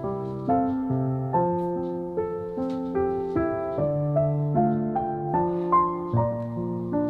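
Background piano music: a slow, gentle melody of held notes, a new note or chord struck about every half second.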